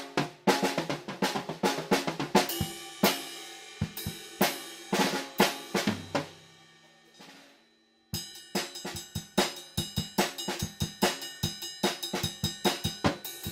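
Acoustic drum kit played freely, with snare, bass drum, hi-hat and cymbals, picked up unprocessed by a stereo overhead microphone about two metres away. The playing thins out after a couple of seconds, rings away almost to silence a little past halfway, then a fast, busy pattern starts again.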